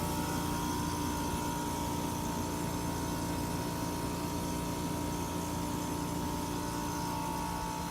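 HVAC equipment running: a steady hum with fan-like rushing air and a couple of constant motor tones.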